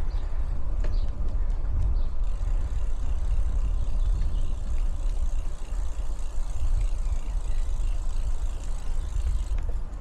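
Wind buffeting the microphone of a camera on a moving bicycle: a steady, fluttering low rumble with a faint hiss above it.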